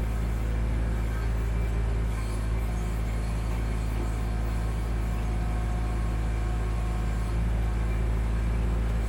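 Kubota B2650 tractor's three-cylinder diesel engine running at a steady speed while the BH77 backhoe is worked.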